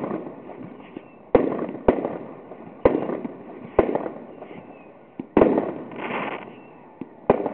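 Fireworks exploding: six sharp bangs at uneven intervals of about one to two seconds, each trailing off in a rolling echo, with a brief hiss about six seconds in.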